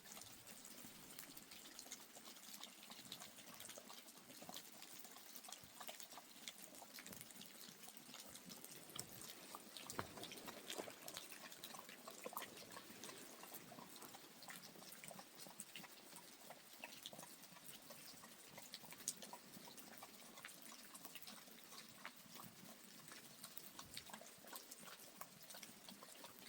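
Faint rain dripping and pattering: many small irregular drop ticks over a soft hiss.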